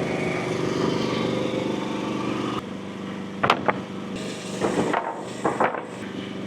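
Frontier OS35 hydraulic sawmill's engine running steadily, louder for the first two and a half seconds, then settling lower. In the second half come several sharp knocks and clacks.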